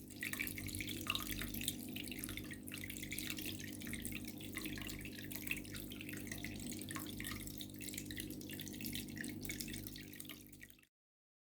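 Water trickling and dripping in a small homemade cement tabletop fountain: a steady patter of drops over a low, even hum. It cuts off suddenly near the end.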